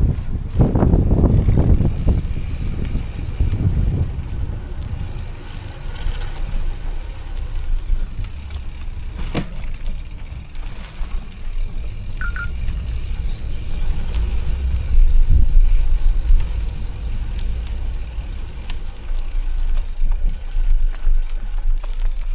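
Wind buffeting the microphone with a steady low rumble from riding a bicycle along a path, with a few light clicks and a single short chirp about halfway through.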